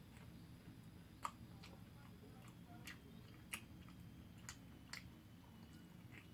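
Quiet firewood fire in a traditional Korean agungi furnace: about seven sharp, scattered crackles and pops over a faint steady low hum.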